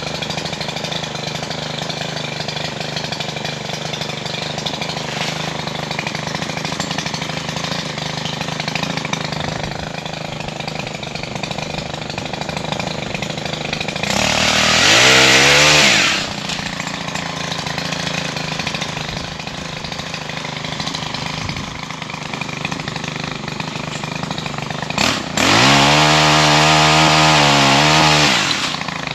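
Stihl HT 135 pole pruner's small 4-MIX engine running at idle, then revved to full throttle twice as its chain cuts overhead limbs: briefly about halfway through, and for about three seconds near the end before dropping back.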